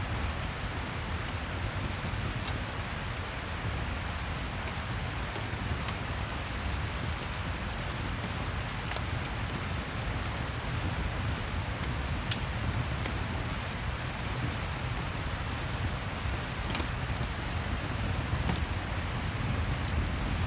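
Steady rain falling, with a low rumble under it and a few scattered sharp crackles from a fireplace.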